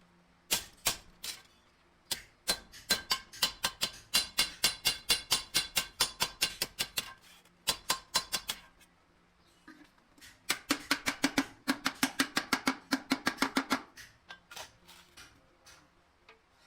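A hand hammer striking a sheet-metal bucket in quick, even blows, about five a second, each blow ringing. Two long runs of hammering with a short break between them, plus a few single blows.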